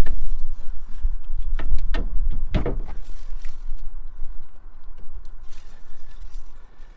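Metal tools and parts clanking and knocking during work on the steering box mounting, with a cluster of sharp knocks between one and a half and three seconds in, over a steady low rumble.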